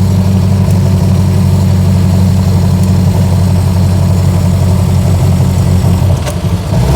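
1924 Austin Seven's small four-cylinder engine running steadily as the car is driven. Near the end there is a click and a brief dip, and the engine settles to a lower note.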